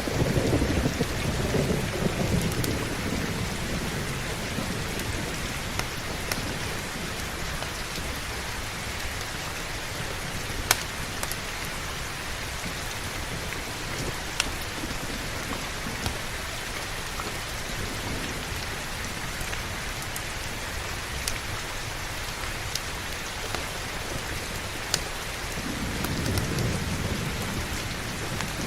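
Heavy steady rain, with rolling thunder rumbling low at the start and again near the end. A few sharp pops stand out above the rain.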